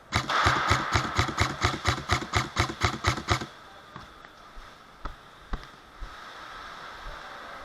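Airsoft gun firing a rapid, even string of shots, about five a second for roughly three and a half seconds, then a few single sharp shots.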